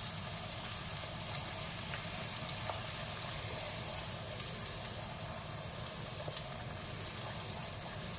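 A thin disc of papri dough deep-frying in hot oil, a steady sizzle flecked with fine crackles as the oil bubbles around it.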